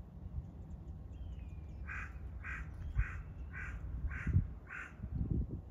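A bird calls six times in an even series, about two calls a second, starting about two seconds in, over a steady low rumble.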